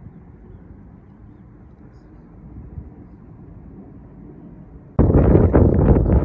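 Wind blowing across a meadow, a soft low rush at first; about five seconds in a strong gust hits the microphone and turns into loud, uneven buffeting rumble.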